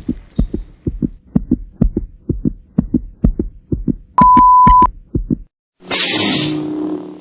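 Heartbeat sound effect: a steady lub-dub pulse about twice a second. About four seconds in, a loud steady electronic beep cuts across it for under a second. The pulse then stops and a short burst of noise with a low hum follows near the end.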